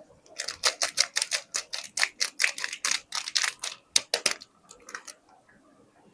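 Soap packaging being handled: a quick run of crisp, crackling clicks, about five a second, lasting some four seconds, then a few fainter ones.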